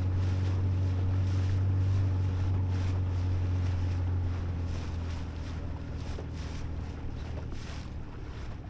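Boat's outboard motor running steadily under way, with wind buffeting the microphone and water rushing by. About halfway through, the motor eases off and its hum drops lower and quieter.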